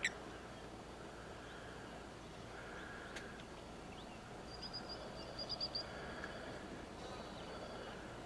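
Faint outdoor background noise with a bird giving a quick run of high chirps about halfway through.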